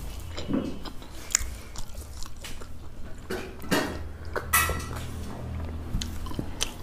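Close mouth sounds of a person chewing a mouthful of jeera rice, with wet clicks of the mouth, and a few sips from a glass of buttermilk about four seconds in.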